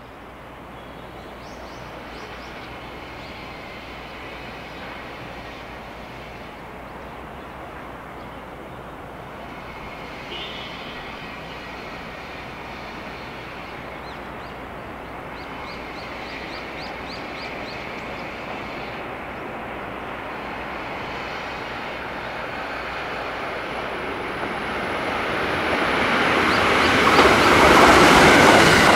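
A limited express electric train approaching at high speed: a steady rumble that grows slowly, then swells sharply over the last few seconds as the train nears.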